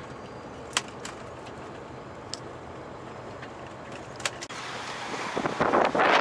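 Steady low background noise with a few faint clicks, then about five seconds in a loud rush of wind builds up quickly as a blizzard sets in.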